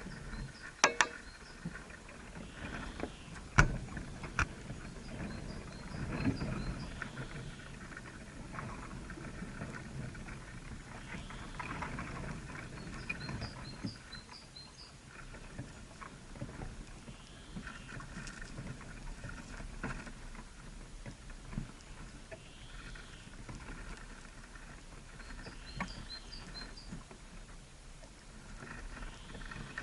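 Small birds calling: short groups of high chirps several times and a repeated call phrase every few seconds, over low rustling with a few sharp knocks in the first few seconds.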